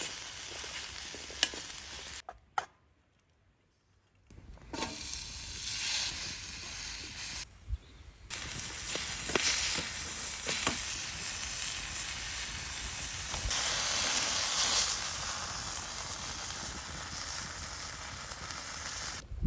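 Beef frying over a campfire, a steady sizzle with occasional sharp pops. The sizzle stops for about two seconds a couple of seconds in, and dips briefly near eight seconds.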